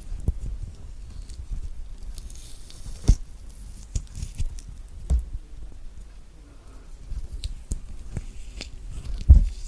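Thick orange peel being torn off in pieces by hand, with soft tearing, squishing and handling knocks. There is a sharper knock about three seconds in and another near the end.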